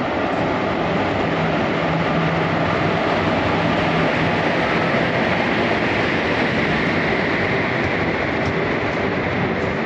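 WAP-4 electric locomotive hauling a passenger train pulling slowly into a station platform, with a steady rumble of wheels on the rails. A low steady hum from the locomotive is heard between about one and four seconds in, then the coaches roll past.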